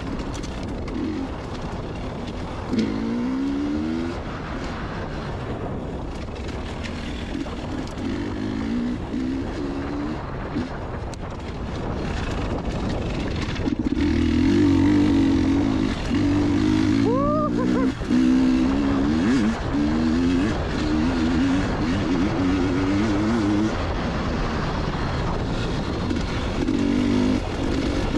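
Two-stroke dirt bike engine being ridden on a trail, its revs rising and falling again and again as the throttle is worked, louder from about halfway through.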